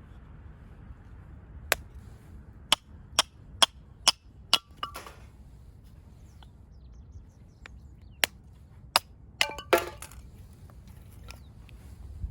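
Firewood being split by hand: a run of sharp, ringing knocks of a blade struck into wood. The knocks come in two clusters, each ending in a short crackle as the wood splits.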